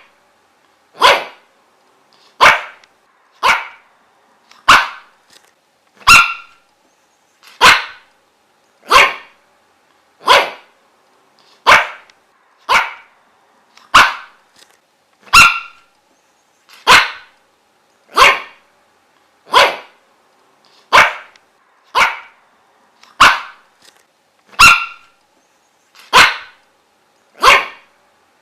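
A dog barking single barks at a steady pace, about one every second and a half, with silence between them. The same handful of barks repeats about every nine seconds, as in a looped recording.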